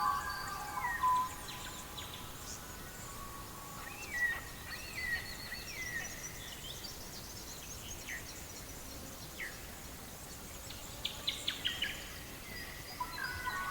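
Songbirds calling, with scattered short whistled chirps, some hooking upward and some sweeping down, and a quick run of sharp notes near the end, over a faint steady hiss.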